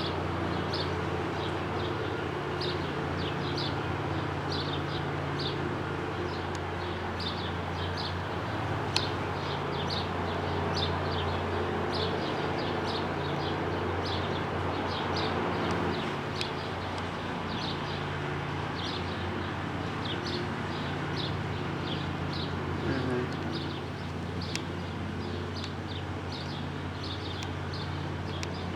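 A small bird chirping over and over in short high notes, about two a second, over the steady low drone of distant lawnmower engines. Two sharp clicks stand out, one about a third of the way in and one near the end.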